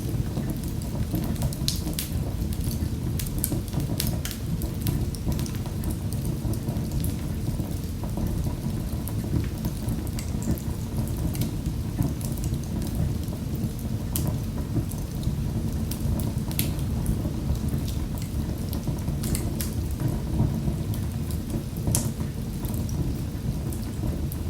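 Wood fire in a fireplace crackling: frequent sharp pops and snaps over a steady low rumble of the burning logs.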